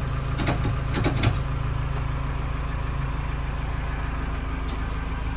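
The engine of an old loader idling steadily, with a few sharp clanks about half a second to a second and a half in.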